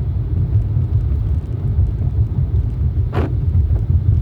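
Steady low road rumble of a car heard from inside the cabin while driving, with one short sharp sound about three seconds in.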